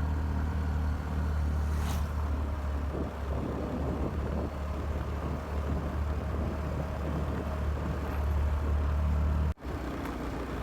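Motor scooter riding along a road: engine and road noise under a steady low rumble. The sound cuts out abruptly for an instant near the end, then carries on quieter.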